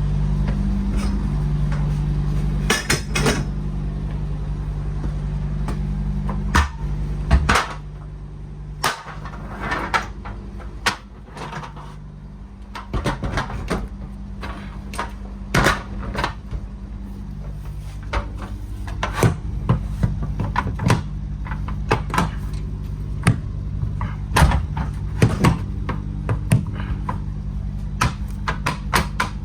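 A steady low engine hum, quieter for a few seconds about a third of the way in, with many sharp clicks and knocks scattered on top of it.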